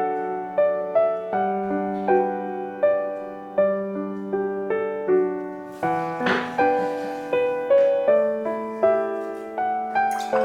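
Background piano music: gentle, tender notes played at about two a second, each struck and fading. A brief bright swish sounds about six seconds in and again near the end.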